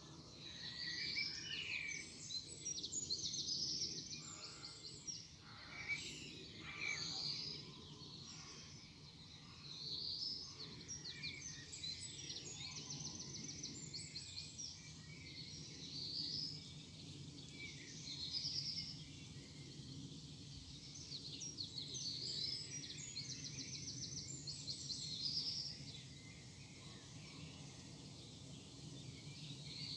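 Songbirds singing: short high whistled phrases and fast trills repeat every couple of seconds over a steady low background hum.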